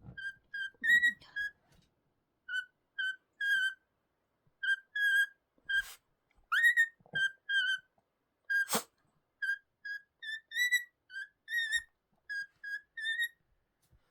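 A cockatiel whistling its song: a string of short, clear whistled notes in quick groups with brief pauses, with one note sliding upward about six and a half seconds in. A sharp click sounds about nine seconds in.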